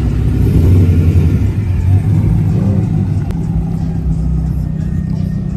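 Car engine running with a deep exhaust rumble. It is loudest over the first two seconds, then settles to a steady idle.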